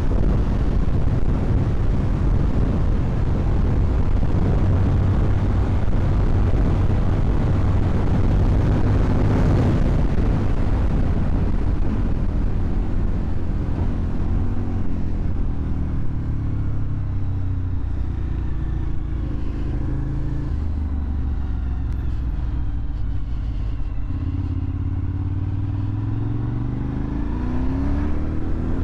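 Suzuki TL1000R's 90-degree V-twin running through a LeoVince aftermarket exhaust while being ridden. It is loud and dense for the first ten seconds or so, settles lower in the middle, and rises in pitch near the end as the bike accelerates.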